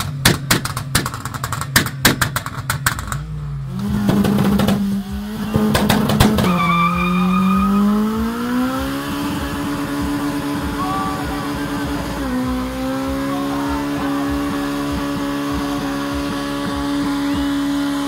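A car engine is held at high revs during a stationary burnout, with the tyres spinning. Over the first few seconds a rapid crackle of exhaust pops and bangs sits on top of the engine note. The revs then climb over a few seconds and hold steady and high, with a small step up about twelve seconds in.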